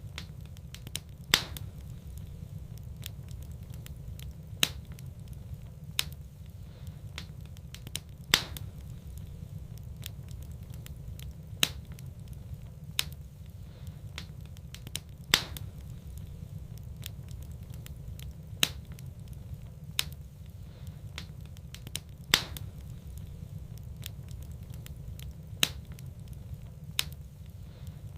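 Wood fire burning in a fireplace, crackling, with a sharp pop every few seconds over a low steady rumble.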